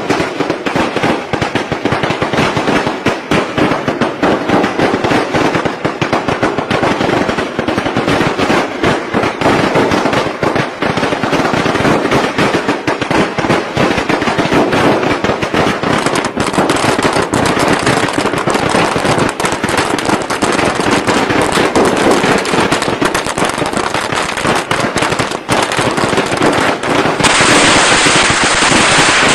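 Strings of firecrackers going off in a dense, unbroken crackle of rapid bangs. The sound changes abruptly about halfway through and again near the end, where other firecracker recordings are joined in.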